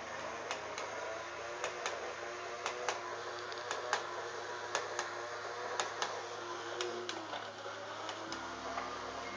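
Small sharp clicks, coming in pairs about once a second, over a steady low hum.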